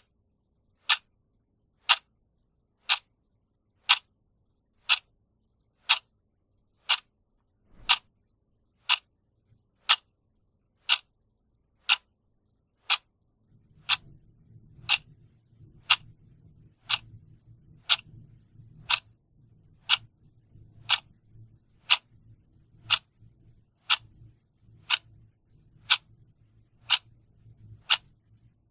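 Clock ticking steadily, one sharp tick a second. A faint low rumble sits underneath from about halfway through.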